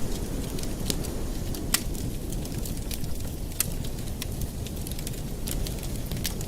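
Wood fire burning in a fireplace: a steady low rushing of the flames with irregular sharp crackles and pops, one louder pop a little under two seconds in.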